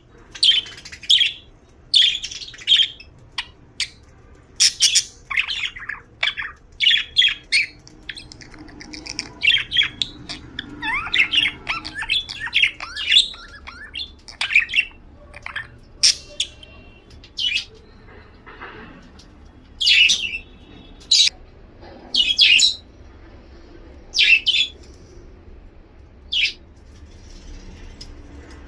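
Pet budgies (budgerigars) chirping and squawking in short, loud, high-pitched calls that come irregularly throughout, with quieter chattering between them.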